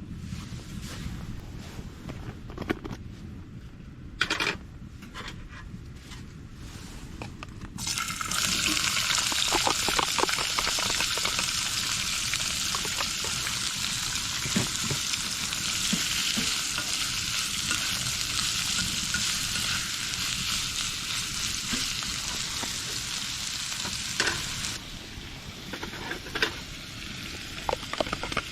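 Food frying in a hot pan. A few light utensil clicks and knocks, then a loud, steady sizzle starts suddenly about a quarter of the way in. It cuts off abruptly a few seconds before the end, and more light knocks follow.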